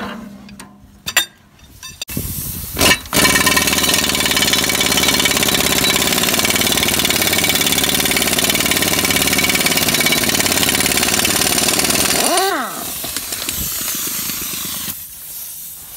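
A few knocks, then a loud machine starts and runs steadily for about ten seconds, with a strong hiss over its hum. It winds down with a falling whine about three-quarters of the way through.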